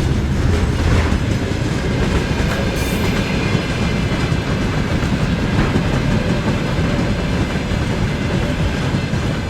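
Freight train wagons rolling past at speed: a steady heavy rumble with the clickety-clack of wheels over rail joints.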